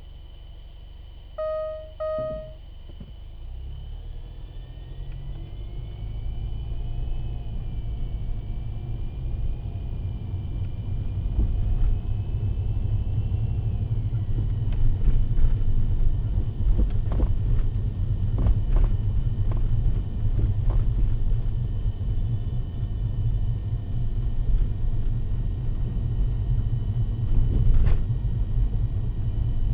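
Road and drivetrain rumble in a car's cabin, after two short electronic beeps near the start. From about halfway on, sharp high-edged knocks ('pako! pako!') come from the front suspension over bumps, in groups: the anti-roll bar is knocking against its rubber bushings, which have worn a gap.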